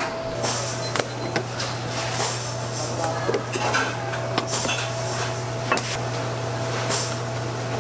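Clatter of metal pans and utensils: irregular clicks and knocks, over a steady low machine hum.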